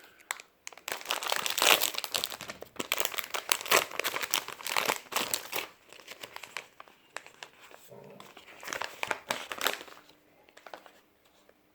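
Microwave popcorn packet crinkling as it is unwrapped and handled, a dense irregular crackle for about ten seconds that thins out near the end.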